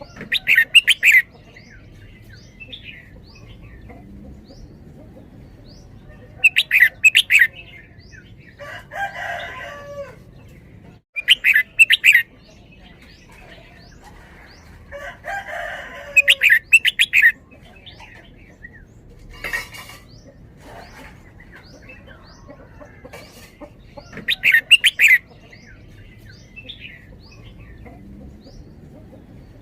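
Red-whiskered bulbul singing short bursts of rapid, loud notes, five times and a few seconds apart, in the doubled-phrase song style keepers call 'double-double'. Twice in between come softer, lower calls.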